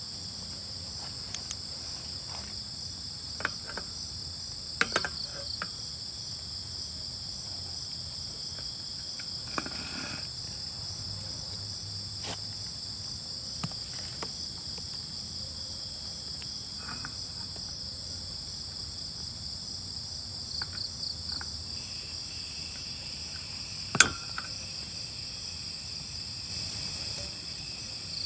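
Crickets and other night insects chirring steadily in a continuous high-pitched drone. Scattered small clicks and knocks, with one sharp knock about 24 seconds in standing out as the loudest sound.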